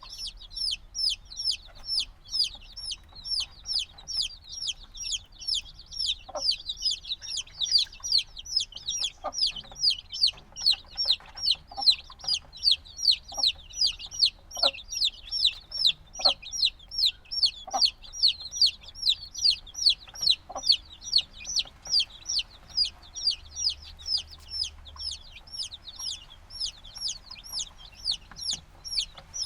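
A group of chicks only a few days old peeping continuously: a dense stream of high, short chirps falling in pitch, several a second, with now and then a lower, softer call among them.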